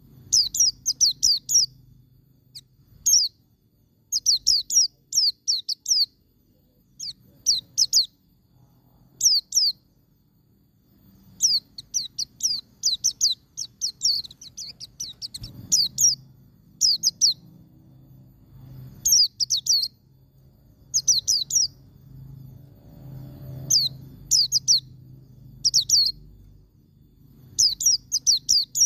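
White-eye (pleci) singing in the 'ngalas' style: short, quick bursts of high, downward-sweeping chirps, several notes to a burst, repeated every second or so with brief pauses. A faint low hum runs underneath.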